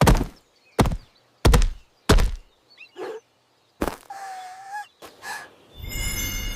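Four heavy thuds in quick succession, about two-thirds of a second apart, then a short pitched call and, near the end, a harsh, dense sound with several steady tones.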